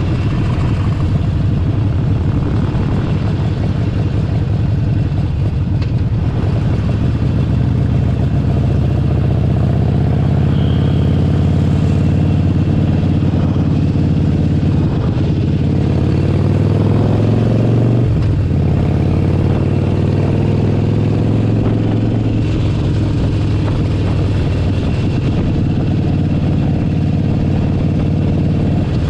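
Harley-Davidson Forty-Eight Sportster 1200's air-cooled V-twin running under way. Its pitch climbs as it accelerates, drops suddenly at a gear change about eighteen seconds in, then climbs again.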